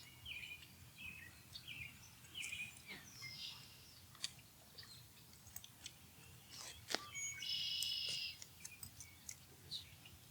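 Osprey calls: a run of short, downward-slurred whistled chirps at about two a second, then scattered chirps. About seven seconds in there is a loud, harsh, buzzy call lasting under a second, over a faint low outdoor rumble.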